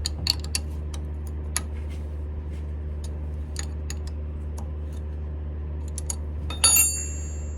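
Smithy CB-1220XL combination lathe running with a steady low hum, with scattered light metallic ticks. About two-thirds of the way through comes a sharper metal clink that rings briefly.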